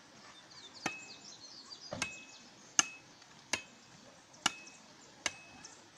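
Machete chopping firewood: six sharp blows about a second apart, each with a brief metallic ring from the blade.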